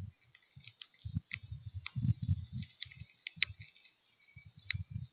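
Birds at a feeder: irregular soft knocks and sharp clicks as they land and peck, with a few short, high chirps.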